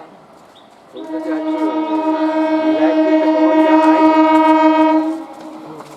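Electric multiple-unit (EMU) local train's horn sounding one long, steady, loud blast of about four seconds, starting about a second in.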